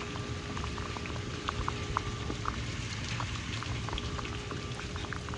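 Steady rain falling, a continuous hiss with scattered sharp drops ticking on nearby surfaces.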